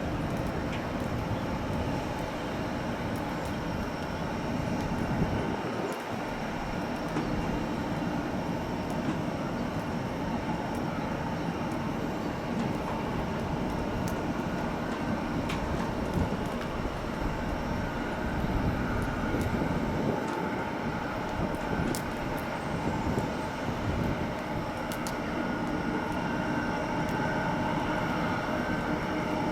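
Jet airliner engines running, a steady, continuous noise with a faint whine held over it.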